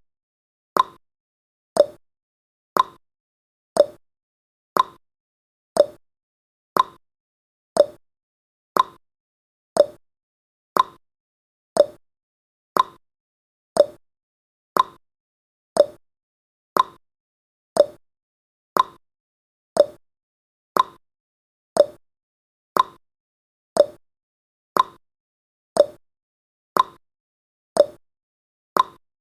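Clock-tick sound effect of a countdown timer: short, sharp ticks, one a second, evenly spaced throughout.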